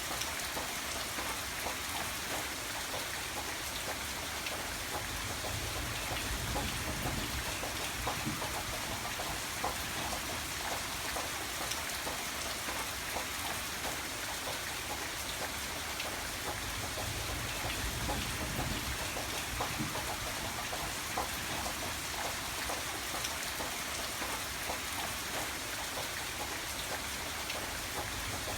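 Steady rain falling on a surface, with many small drop impacts and a low rumble underneath.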